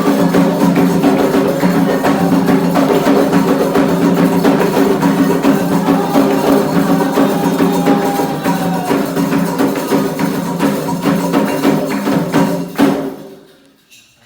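Candomblé ritual percussion: a fast, dense rhythm of drums with struck and shaken idiophones, which stops abruptly near the end.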